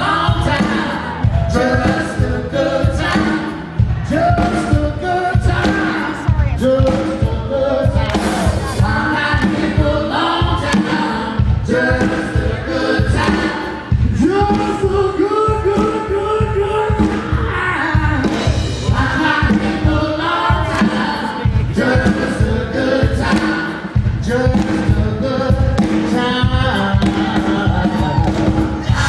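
A live rock band playing with several voices singing over a steady drum beat.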